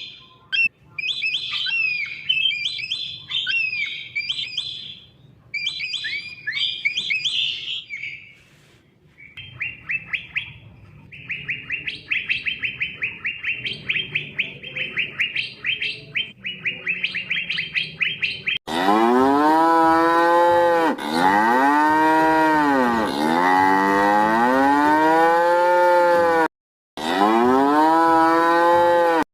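Small bird chirping, then a fast repeated chirping trill, followed about two-thirds of the way through by a cow mooing in long calls that rise and fall in pitch, about three of them.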